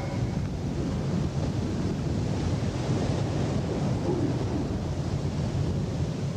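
Steady low rushing noise of wind on the microphone, cutting off abruptly at the end.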